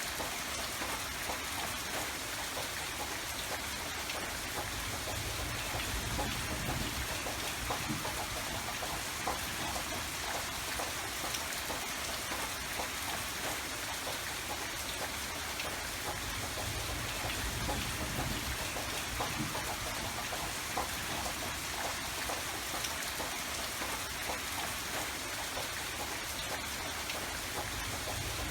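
Steady rain falling, with many fine raindrop patters and a soft low rumble that swells a few times.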